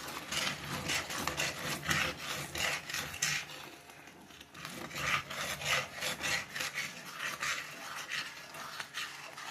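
A spoon stirring a pot of rice, scraping along the bottom in quick repeated rubbing strokes, with a short pause about four seconds in.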